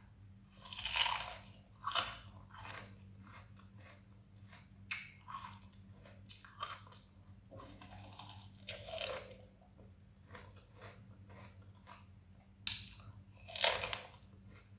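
Close-up biting and chewing of a crisp, white-fleshed fruit. Loud crunching bites come about a second in, at two seconds and near the end, with smaller chewing crunches between.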